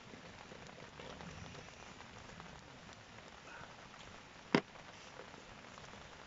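Light rain falling, a faint steady hiss, with one sharp click about four and a half seconds in.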